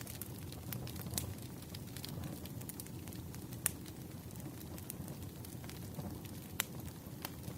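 Wood fire crackling: irregular sharp pops and snaps over a steady low rumble of burning logs, with two louder pops about a third and about seven-eighths of the way through.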